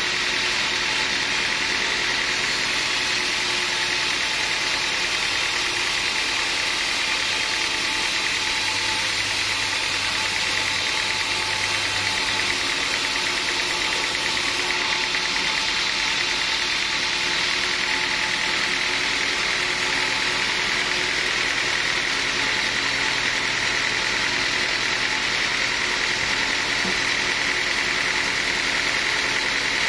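Sawmill machinery running steadily: an even, unbroken mechanical drone with no starts, stops or changes.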